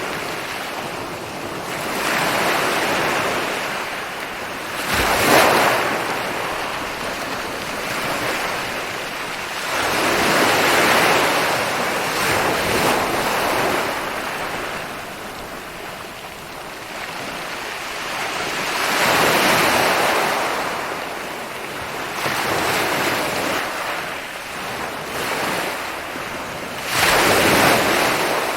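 Ocean waves breaking and washing up a beach in repeated surges every few seconds, with two sharper crashes, about five seconds in and near the end.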